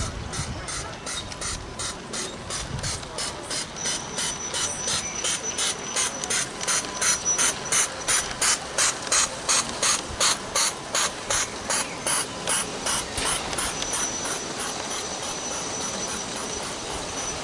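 Exhaust beats of a garden-scale live steam locomotive, a regular hissing chuff about two to three times a second. The beats grow louder to a peak midway and then fade as the engine passes.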